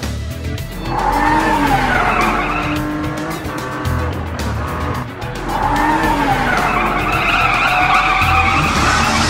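Race car sound effects: an engine revving with tyres squealing, starting about a second in, easing off, then coming back louder about halfway and holding, over background music.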